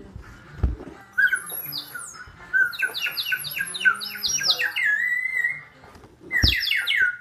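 Water-filled bird whistle blown in a warbling trill, its high whistle wobbling up and down about four times a second as the water bubbles inside it. It plays in a long spell, stops briefly after about five seconds, and starts again with a low thump near the end.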